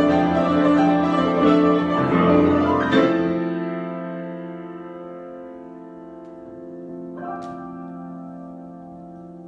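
Solo piano improvisation: a few seconds of struck notes, then a chord held and left to ring and fade, with a soft chord added about seven seconds in.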